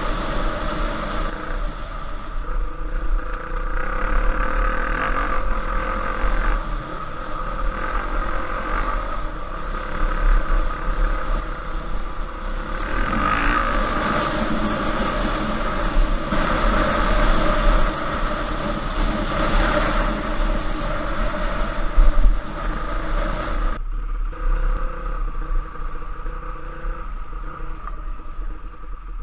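Off-road trail motorcycle engine running and revving up and down as the bike is ridden. The revs ease and it quietens about 24 seconds in.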